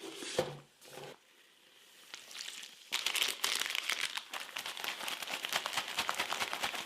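Plastic bag of a self-heating military ration crinkling and crackling, with a few short rustles at first and then a dense, steady run of fine crackles from about three seconds in.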